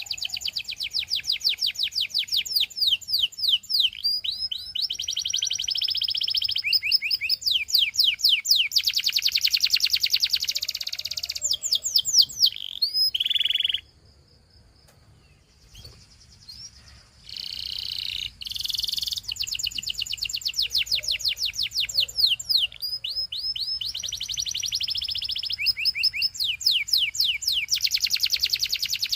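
Canary singing: long, fast trills of rapidly repeated high notes, changing from one trill to another, with a break of about three seconds near the middle.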